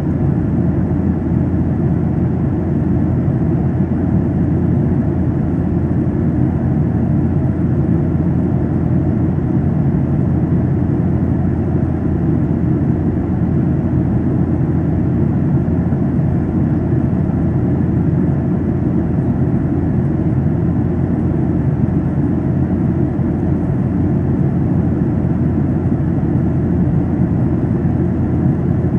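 Steady cabin noise of a Boeing 737-800 in flight, its CFM56-7B turbofans and the airflow over the fuselage making a constant low rush.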